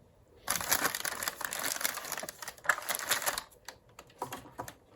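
Plastic parts of an old cordless phone being handled: a dense run of clicking and rattling for about three seconds, then a few scattered clicks.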